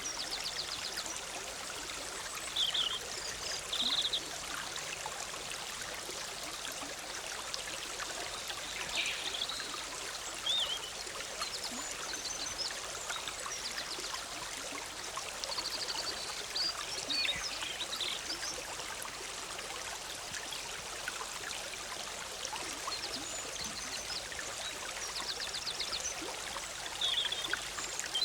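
Forest stream bubbling and trickling steadily, with small songbirds chirping and trilling on and off over it.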